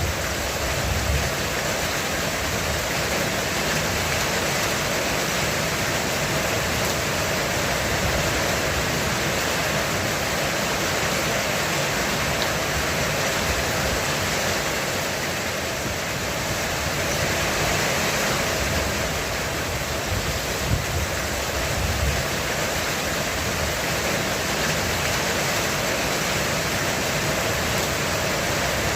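Heavy rain falling steadily on a roof, an even, dense hiss.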